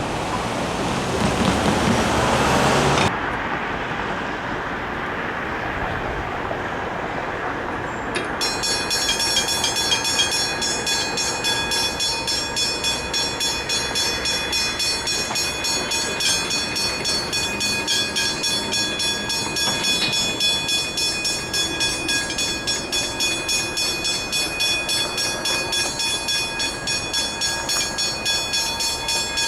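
Level crossing bells start about eight seconds in and ring on in a steady fast rhythm. Before that, a loud rushing rail noise stops abruptly about three seconds in and a quieter rumble follows.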